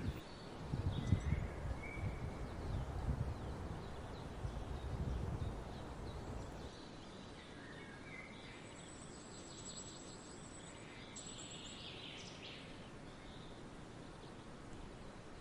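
Faint outdoor ambience with small birds chirping now and then, including a thin high trill about nine seconds in and again a little later. A low rumble runs through the first six or seven seconds and then stops suddenly.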